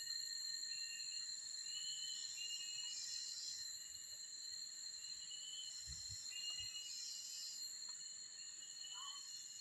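Forest ambience: a steady high-pitched insect drone, with short chirping calls repeating every second or two over it. A few soft low thumps about six seconds in.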